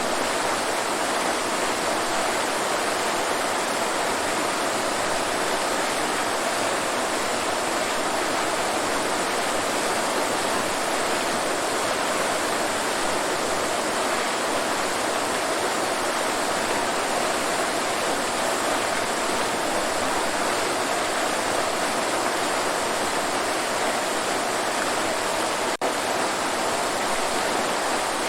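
Waterfall: a steady, unbroken rush of falling water, with one very brief dropout near the end.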